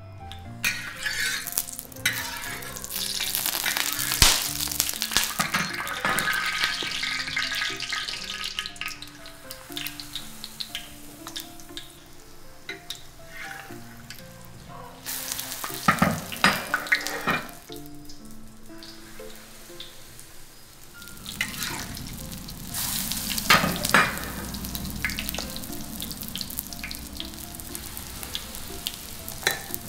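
Luffa-and-flour pancake batter frying in hot oil in a pan, sizzling, with sharp clinks and scrapes of the utensils. The sizzle swells and fades several times.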